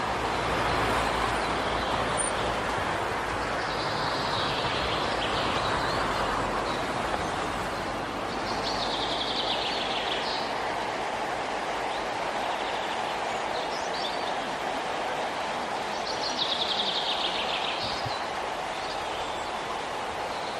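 Blue-breasted kingfisher calling three times, each call a rapid run of high notes lasting about a second and a half, over a steady background hiss.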